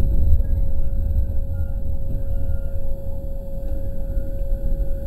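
JR West 207 series electric train running along the track, heard from behind the driver's cab: a steady low rumble with a steady hum over it.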